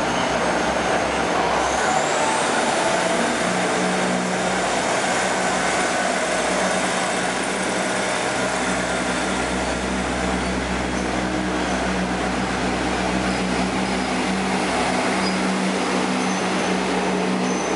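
Diesel railcar express train pulling out of the station, its cars rolling past along the platform with a steady engine hum and a low wheel-on-rail rumble that swells partway through.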